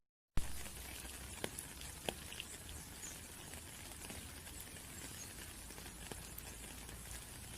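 Rain falling in a steady patter, with individual drops ticking sharply here and there. The sound cuts out completely for about a third of a second at the start, then resumes with a sharp click.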